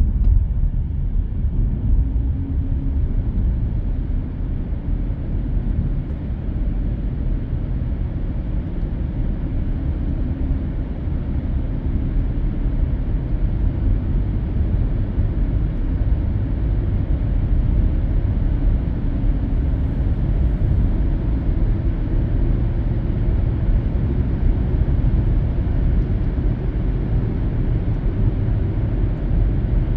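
Car cabin road noise at expressway speed: a steady, muffled low rumble of tyres and engine.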